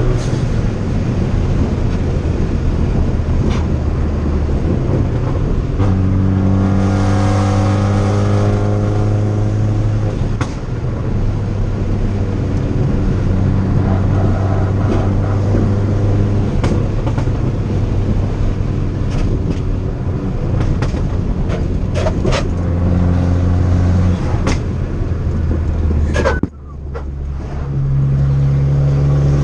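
Tuned 2013 Fiat 500 Abarth's turbocharged four-cylinder engine running under way, its pitch holding steady and shifting in steps, with several short sharp cracks in the second half. The engine note drops away briefly about 26 seconds in, then comes back.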